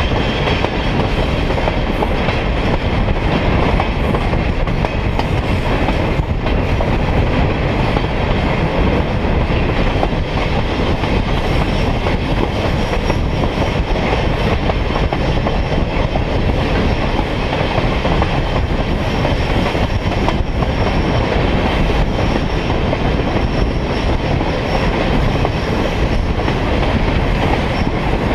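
Train rolling along the track, heard from aboard a railroad car: a steady rumble of wheels on rail with light clicking over rail joints. A faint high wheel squeal comes and goes in the second half.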